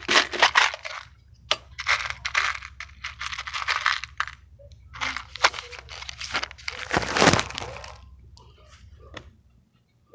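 Clinking, rattling and scraping of hands rummaging through small metal hardware in search of a self-tapping screw, with one louder scrape about seven seconds in, over a steady low hum.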